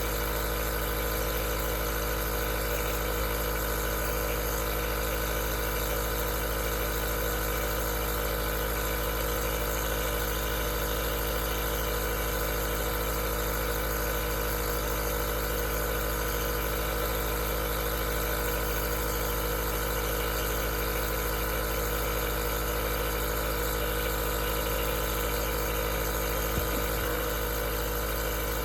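Aerosol nebulizer running steadily: the constant hum of its compressor with a hiss of air, and one faint tick near the end.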